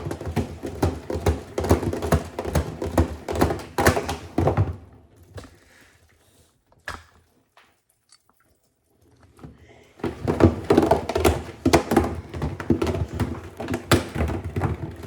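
A calculator tumbling in an LG WM6700HBA front-load washer drum, knocking and clattering against the drum many times a second. The knocking dies away about five seconds in, stops for about five seconds while the drum pauses, then starts again as loud as before.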